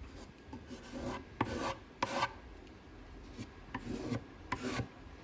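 Wood filler being pressed and scraped into screw holes in plywood: about five short scraping strokes in two quick groups.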